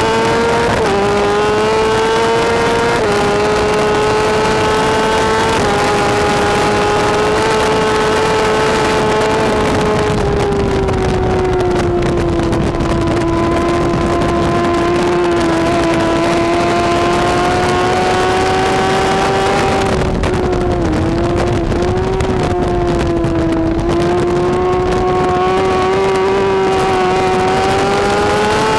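BMW S1000RR superbike's inline-four engine running flat out at high revs. Three quick upshifts early on each drop the pitch a little, then a long steady high-rpm pull, a brief dip about two-thirds of the way through, and the pitch climbing again near the end.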